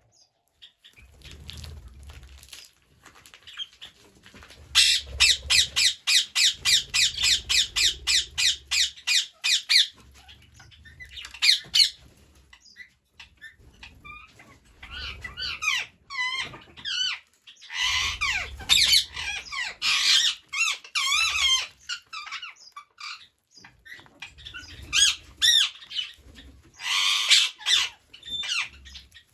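Green parrots squawking. A run of rapid, harsh calls comes at about five a second, followed by bursts of chattering and warbling calls that glide up and down.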